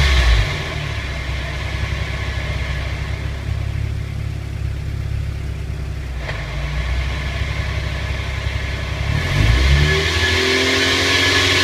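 1998 Mazda Roadster NB8C with its 1.8-litre four-cylinder engine, running on the move. The sound eases off about half a second in, stays steady, then picks up with a rising engine note from about nine seconds in. The car has a rubbing noise from the left rear, like a dragging brake disc, which the owner traces to the differential.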